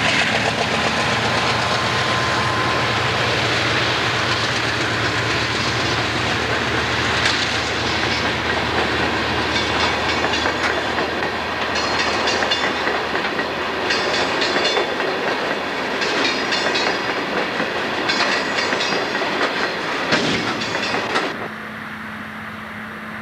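Empty coal hopper cars of a freight train rolling past, steel wheels clattering over the rail joints, with bursts of higher metallic ringing from the wheels about every two seconds in the second half. Near the end the sound drops suddenly to a quieter steady low drone.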